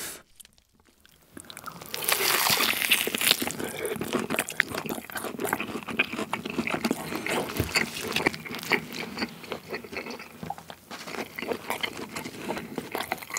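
After about a second of quiet, close-miked biting and chewing of tomahawk steak topped with whole-grain mustard: a dense run of wet, crackly mouth sounds, loudest just after the bite.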